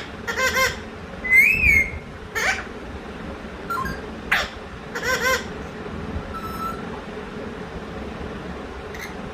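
A talking pet bird vocalising to itself: short squawky chattering calls, a rising-then-falling whistle about a second in, a few sharp clicks, and a second burst of calls about five seconds in, ending with a faint short whistle.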